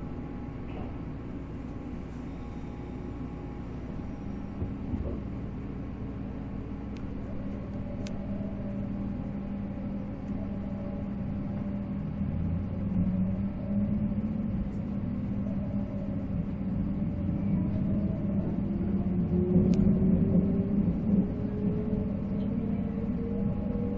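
485-series electric train heard from inside the car, pulling away from a station stop: low running rumble and motor hum, with the MT54 traction motors' whine rising steadily in pitch through the second half as the train gathers speed.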